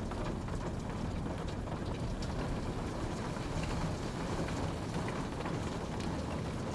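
Steady rainfall, a dense even hiss with scattered drops ticking on a surface.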